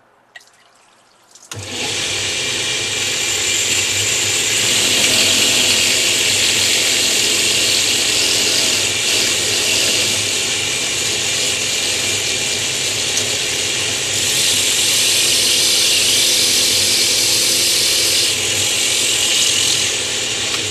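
Power tool with a diamond bit switched on about a second and a half in, then running steadily while it grinds a shallow pocket into the back of a natural stone tile, moved back and forth.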